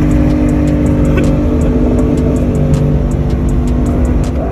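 Loud car engine running at steady held revs, with a deep rumble and a constant drone, mixed with music. It cuts off suddenly at the end.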